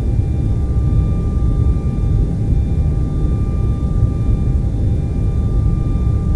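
Continuous TV static noise, heavy in the deep range, with a few faint steady high tones running through it. It holds unchanged throughout.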